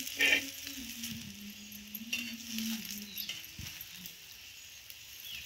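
Alu vadi pieces shallow-frying in oil on a flat iron griddle (tava), sizzling steadily while a metal spatula turns them, with a brief louder scrape just after the start.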